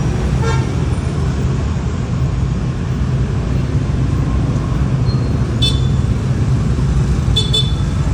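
Steady low rumble of road traffic. Three brief high-pitched calls cut through it: about half a second in, near six seconds, and near seven and a half seconds.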